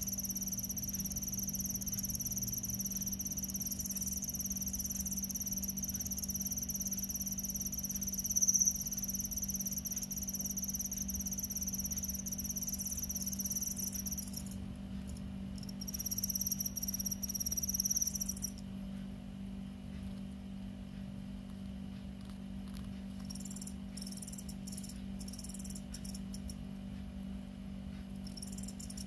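A cricket trilling: a continuous high-pitched buzzing trill that breaks up about halfway through, stops, and resumes in short broken bursts near the end, over a steady low hum.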